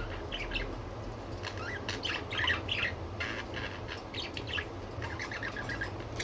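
Budgerigars chirping and chattering in quick, short calls, over a steady low hum.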